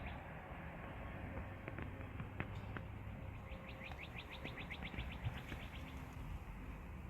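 A bird trilling: a fast, even run of short high chirps, about eight a second, lasting a couple of seconds from about three seconds in, over a low background rumble with a few faint clicks.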